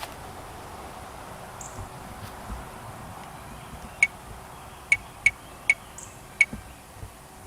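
A run of short, sharp chirps, about five in under three seconds starting around the middle, each a single clear note, over steady outdoor background noise; most likely a small bird's call notes.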